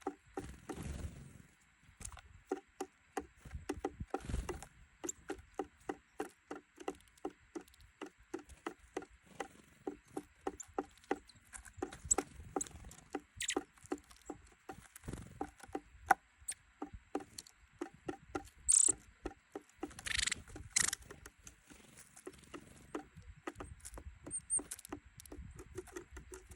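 Small birds such as tits and nuthatches pecking and hammering at seeds and nuts on a feeder board: rapid, irregular sharp taps, several a second. A few brief wing flutters come in between.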